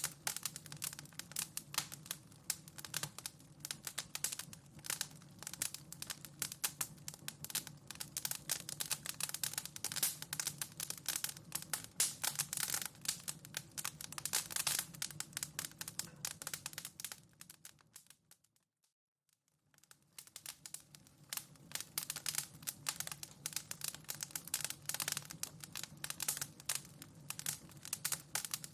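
Wood fire in a fireplace crackling, with dense, irregular pops and snaps over a low steady rumble. About 18 seconds in it fades out to near silence for a second or two, then fades back in.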